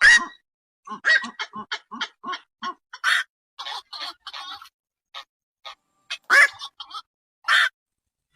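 Black-crowned night herons calling: a run of short, harsh calls, several a second, with a few louder squawks in between. This is a night heron call recording of the kind played as a lure when trapping the birds.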